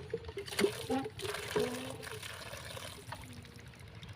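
Liquid pouring and trickling, with a few sharp knocks and clatters in the first second or so.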